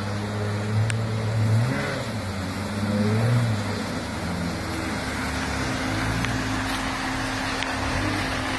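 Quad bike engine running and revving, its pitch rising and falling over the first few seconds, then running steadier.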